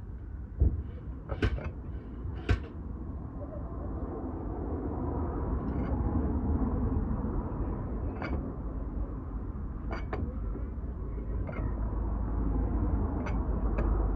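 A low vehicle rumble that builds up a few seconds in and holds steady, with scattered sharp knocks and clicks.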